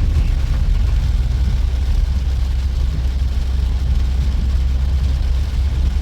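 Steady low rumble of a 2012 Honda Odyssey running, with a faint even hiss above it.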